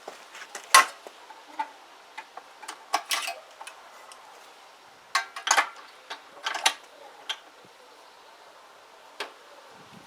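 Metal hand tools clinking and tapping against each other and the engine, a scattering of sharp clinks with the loudest about a second in.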